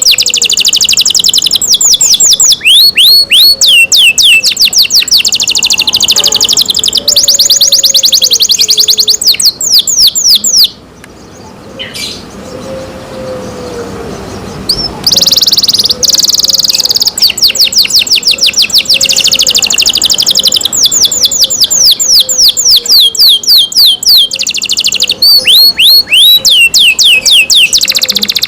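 Domestic canary singing: long, fast trills of rapidly repeated high notes, which stop about eleven seconds in for about four seconds and then start again.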